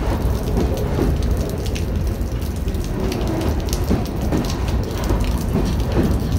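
Freight cars rolling past at close range: a steady rumble of steel wheels on rail, with scattered clicks and brief squeaks.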